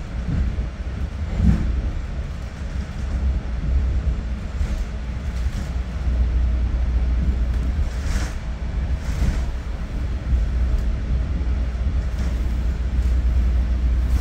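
Steady low rumble of a Bombardier MultiLevel commuter coach running along the track, heard from inside the car, with a few brief clatters, two of them about eight and nine seconds in.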